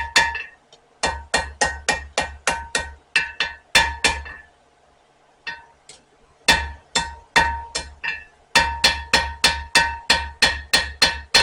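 Blacksmith's hammer striking a spring-steel knife blade on an anvil, about three blows a second in runs with short pauses, each blow leaving a clear metallic ring. The blade is being drawn out and evened by hand forging.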